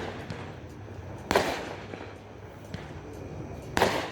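Fireworks going off: two loud bangs about two and a half seconds apart, each trailing off in a short rumble, with a few faint pops between them.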